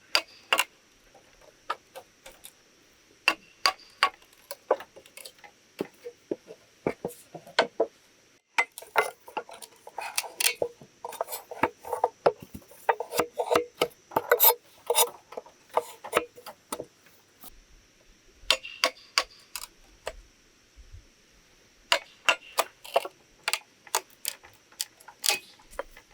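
A rapid, irregular run of sharp knocks and clicks, like hard objects being handled or struck, thickest in the middle stretch. A faint steady high whine runs underneath and breaks off briefly about a third of the way in.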